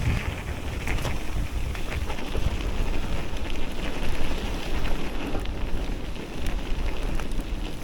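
Riding noise of an electric mountain bike on a rough track: wind buffeting the microphone, with a steady rumble and many small crackles and rattles from the tyres and bike.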